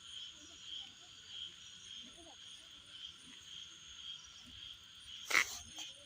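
Night chorus of insects and frogs: a steady high insect trill pulsing about one and a half times a second, with faint scattered frog calls lower down. A sharp click about five seconds in is the loudest sound.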